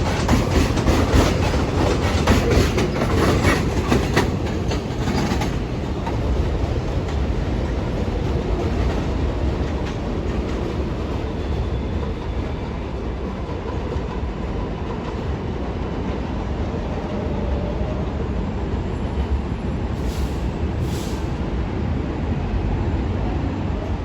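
New York City subway train running through the station. For the first five seconds or so its wheels clack rapidly over the rail joints, then the sound settles into a steady rumble.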